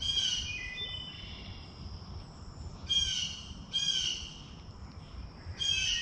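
A songbird singing four short, high-pitched phrases: one at the start, then about three, four and five and a half seconds in. A steady high hum runs underneath.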